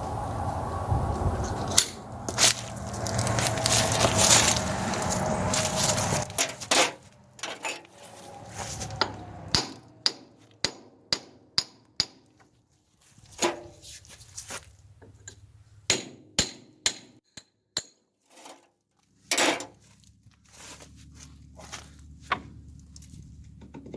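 Metal tool work on a steel hydraulic cylinder: a few seconds of continuous clatter, then a long run of single sharp metal knocks and clinks at irregular spacing, roughly one a second, like hammer or wrench strikes.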